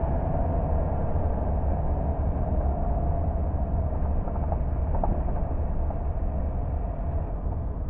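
Car driving along a road: steady low rumble of engine and tyre noise, with no clear change in speed.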